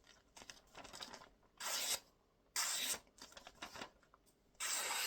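Razor-sharpened handmade hunting knife slicing in a sharpness test: three cutting strokes about a second apart, the last one longest, with fainter scraping between them.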